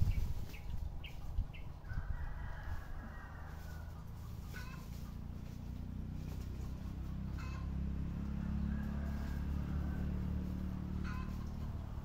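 A few short bird calls, with a longer, slightly falling call about two seconds in, over a steady low rumble.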